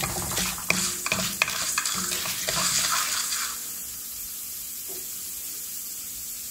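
Wooden spoon stirring and scraping cumin seeds, urad dal, chana dal and curry leaves around a stainless steel kadai as they sizzle in about a tablespoon of hot oil: the tempering being sautéed. About three and a half seconds in the stirring stops and the sizzle drops to a quieter, steady hiss.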